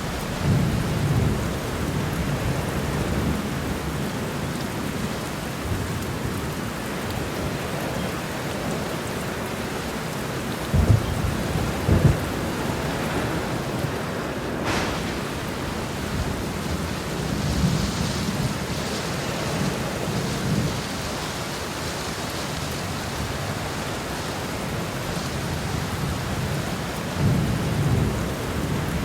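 Heavy rain falling steadily in a thunderstorm, with thunder rumbling low several times. Two louder thunder peaks come close together near the middle.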